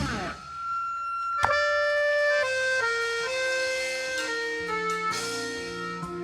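Slow instrumental music on a keyboard, long held notes stepping from pitch to pitch, just after loud band music cuts off. A single sharp click sounds about a second and a half in.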